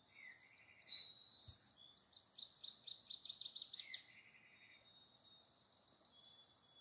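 Faint bird song in the background: a few short whistled phrases, then a rapid trill of repeated notes from about two to four seconds in.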